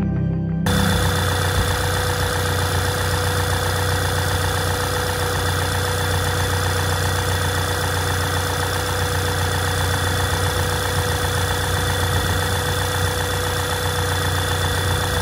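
The 2012 Volkswagen GTI's 2.0-litre turbocharged four-cylinder, fitted with an open cone air filter, idling steadily with a busy, even mechanical chatter. It starts abruptly about half a second in.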